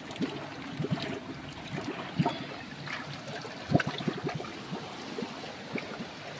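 Water trickling and splashing at a spring-fed drinking-water source, an even rush broken by small irregular splashes.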